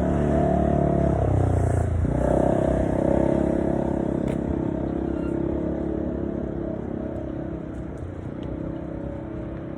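A motor engine running, its pitch shifting about two seconds in and then holding steady as it slowly fades away.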